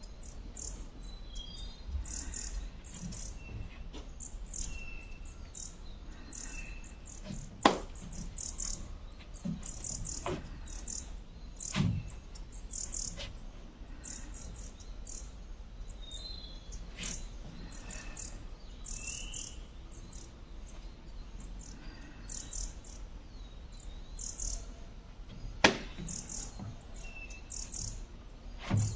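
Small birds chirping in quick, high clusters over and over, with a few clearer whistled notes among them. Two sharp knocks, about 8 seconds and 26 seconds in, are the loudest sounds, with a duller thump around 12 seconds.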